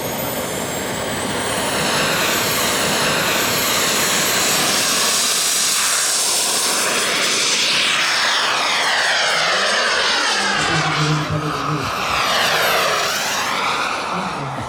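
Radio-controlled model airplane flying past: a loud, high engine whine that drops in pitch as it goes by, from about eight seconds in until near the end.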